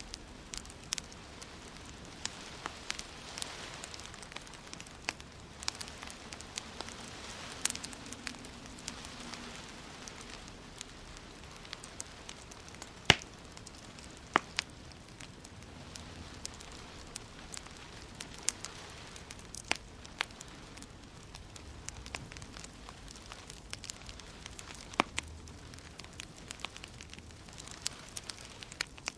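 Wood fire crackling in a fireplace: sharp pops at irregular intervals over a steady hiss, with one louder pop about halfway through.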